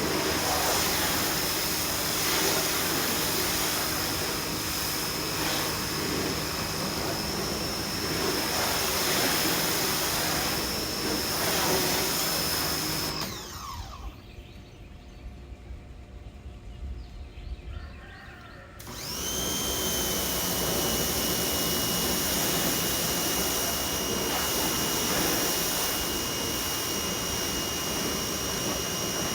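DeWalt 2100 PSI electric pressure washer spraying through a 15-degree nozzle, its motor running with a steady high whine over the hiss of the jet. About halfway through the trigger is let go: the motor winds down and shuts off automatically. About five seconds later it starts again with a rising whine and runs on.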